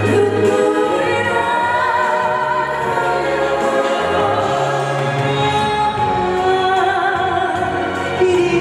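A singer performing a Korean popular song with instrumental accompaniment, the music running steadily throughout.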